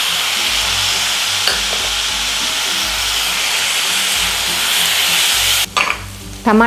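Chopped tomatoes and onions sizzling steadily in hot ghee in a kadai as they are stirred with a spatula. The sizzle cuts off suddenly near the end.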